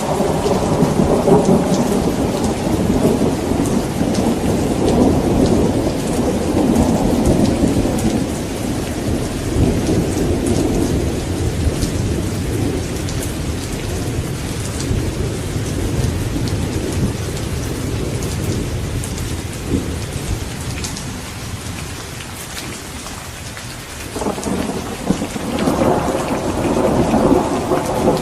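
Steady rain falling, with drops pattering over a continuous hiss, under rolling thunder. The thunder rumbles heavily at first, dies away through the middle, then a new peal rolls in near the end.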